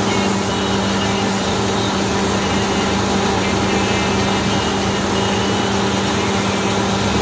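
Engine running steadily at a constant pitch under a loud, even rushing of water and air gushing out of a borewell as it is flushed clean.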